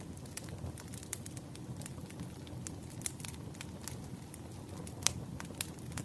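Campfire crackling: irregular sharp pops and snaps over a low, steady rumble of burning, with one louder pop about five seconds in.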